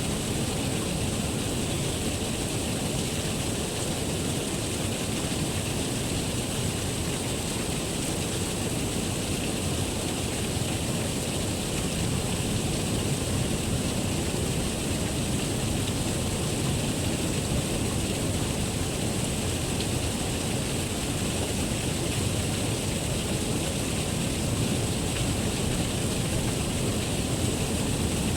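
Water from a small waterfall pouring down in a steady, unbroken rush.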